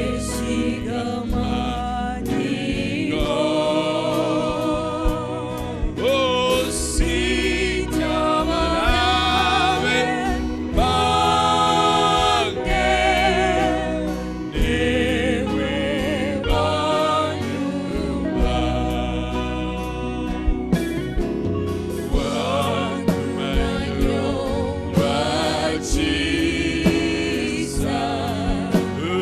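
Gospel worship music: voices singing together over a band with a strong bass line and a steady beat.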